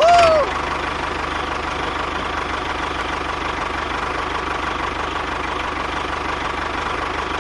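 Engine idling steadily with a fast, even knock. At the very start come a couple of short arching whistle-like tones.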